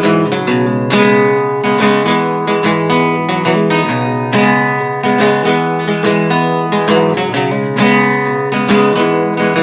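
Acoustic guitar strummed in a steady rhythm, with no singing: an instrumental outro of a folk song.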